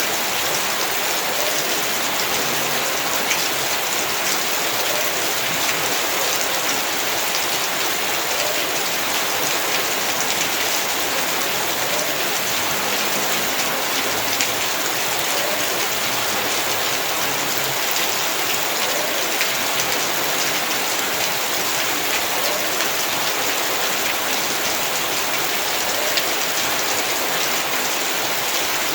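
Heavy rain falling steadily, a dense even hiss scattered with many small drop impacts.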